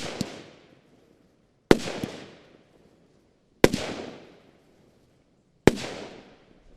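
Argento Kalypso 25 mm 10-shot firework battery firing: four sharp bangs about two seconds apart, each with a fading tail.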